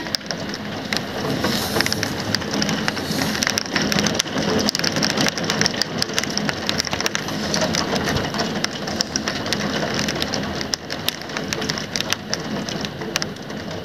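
Heavy rain falling steadily, a dense hiss full of small drop impacts.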